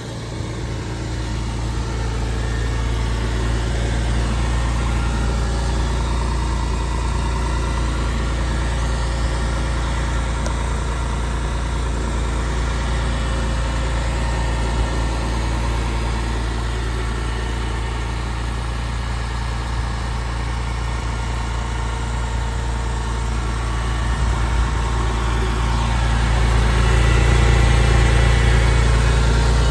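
Porsche 911 Carrera 4's flat-six engine idling steadily on a cold start, after sitting for about a week and a half. It grows a little louder about 26 seconds in.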